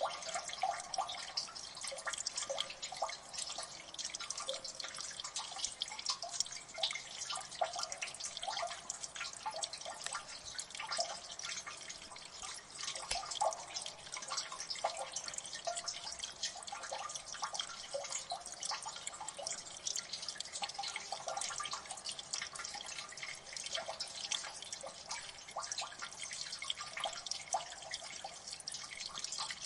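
Water dripping in a gully: many drops a second falling irregularly and overlapping, over a light steady watery hiss.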